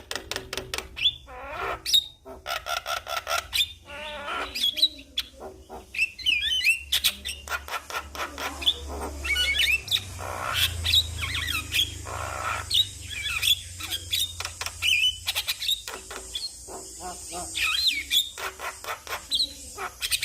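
Javan myna singing a rapid, varied medley of whistles, chattering and harsh clicking notes without pause.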